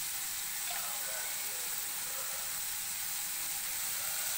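Chopped onion, tomato and boiled potato sizzling steadily in hot oil in a frying pan.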